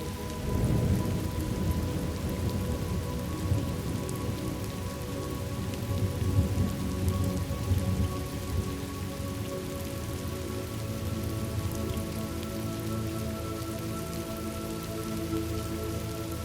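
Steady rain falling, with low rolls of thunder swelling about a second in and again around the middle. Soft, held ambient tones sound beneath the rain.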